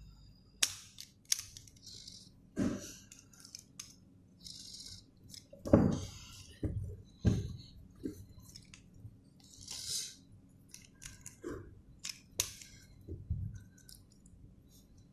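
Plastic 3x3 puzzle cube pieces clicking and scraping as they are fitted into place and the cube is handled: scattered sharp clicks and short rasps at irregular intervals.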